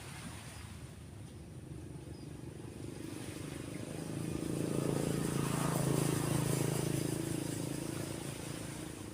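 A motor vehicle driving past, its engine hum growing louder to a peak about six seconds in, then fading away.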